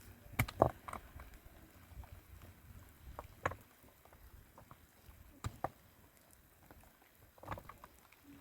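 Irregular knocks and clicks a couple of seconds apart, the loudest about half a second in, over a faint low rumble.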